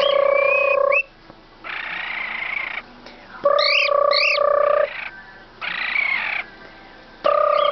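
Pet bird imitating a ringing telephone: three steady electronic-sounding rings, each about a second long and a few seconds apart, with harsher raspy calls in between and quick whistled chirps over the second ring.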